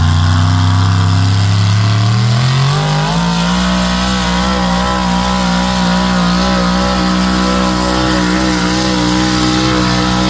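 A pulling truck's 650 cubic inch Ford Boss Hemi engine at full throttle under the load of a pulling sled, climbing in pitch over the first three seconds, then held high with a slight waver.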